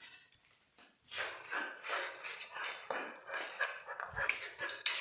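A dog making a quick run of short, noisy vocal sounds that starts about a second in.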